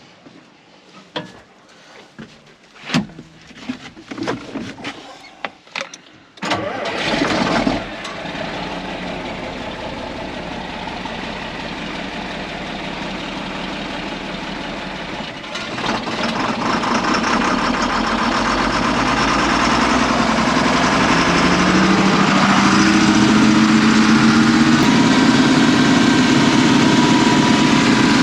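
A few scattered knocks and clanks, then an engine is cranked and catches about six seconds in. It runs steadily, and from about halfway through it speeds up and runs louder, its pitch climbing.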